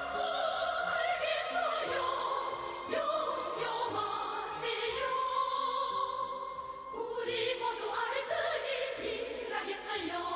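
Opera-style music: a singer holding notes with vibrato over an orchestra.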